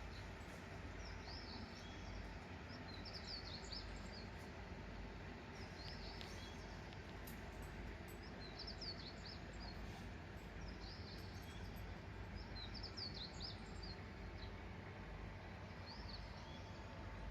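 A small songbird singing short phrases of quick, high chirps, repeated every second or two over a steady background hiss.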